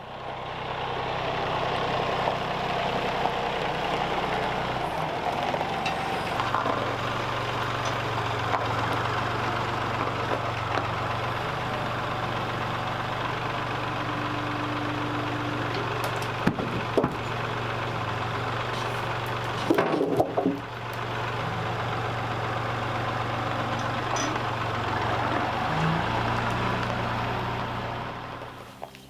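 Power tool motor running steadily under load while working timber. It drops out briefly about twenty seconds in, resumes, and stops near the end.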